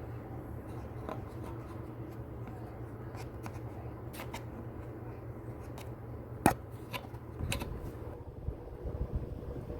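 1988 Gulf Coast Sea Breeze III 36-inch ceiling fan running on high speed with a steady low hum. Scattered sharp clicks come in from about four seconds in, the loudest one about six and a half seconds in.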